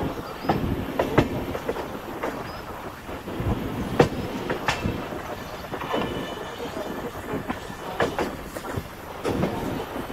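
Passenger train running on the rails: a steady rumble with irregular clicks and knocks as the wheels clatter over rail joints.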